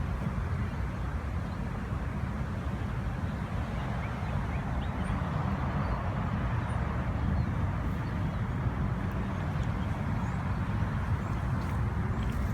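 Norfolk Southern train rolling past with a steady, low rumble of wheels on rail.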